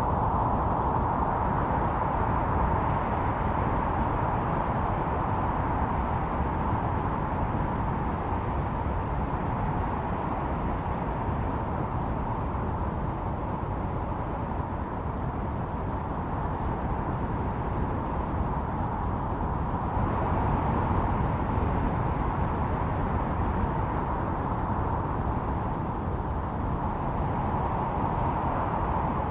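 Snowstorm wind blowing steadily: a low rumble with a howling tone on top that swells and eases slowly.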